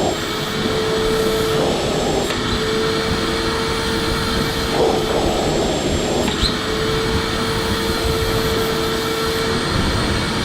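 Electric vacuum cleaner running continuously: a steady motor whine and airflow rush, with a few brief rougher patches where the tone wavers.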